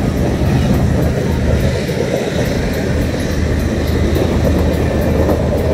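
Freight train's empty flatcars rolling past at close range: a steady rumble of steel wheels on rail.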